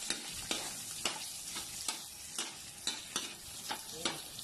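Pieces of fat sizzling in an aluminium wok as their oil renders out, with a metal ladle scraping and tapping against the pan several times a second.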